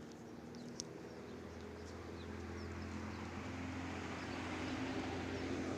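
A road vehicle's engine running with a low hum that grows steadily louder as it approaches, with a few light clicks in the first couple of seconds.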